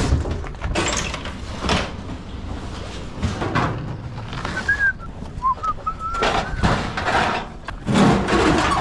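Scattered knocks and thuds of heavy items and metal being handled, with a few short, thin high squeaks or chirps in the middle.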